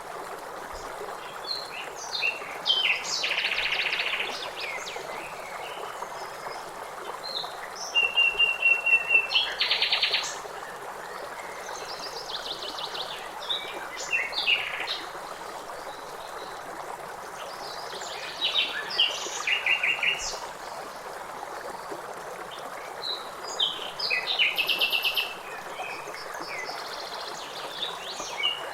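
Songbirds singing in repeated trills and chirps over the steady rush of river water. The loudest phrase comes about a third of the way through.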